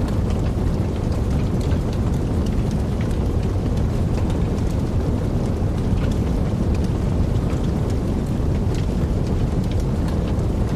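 Wood fire burning in a fireplace: a steady low roar of flames with many small, sharp crackles and pops throughout.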